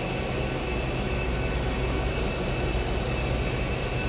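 Steady mechanical hum and hiss of a fast-food restaurant's background machinery, with a faint constant high whine over it.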